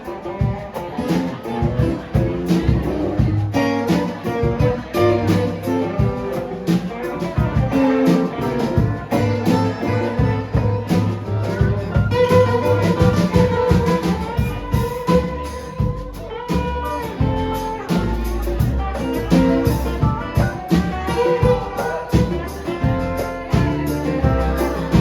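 A live band playing, with guitar over bass and drums keeping a steady beat.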